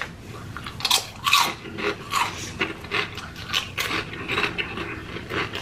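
Close-up crunching and chewing of crispy sauce-coated fried chicken: irregular crisp crunches, loudest about a second in.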